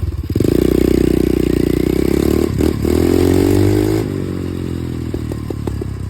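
Dirt bike being ridden: its running note climbs over the first few seconds, then drops back about four seconds in as the throttle eases off. A few short clicks or scrapes follow near the end.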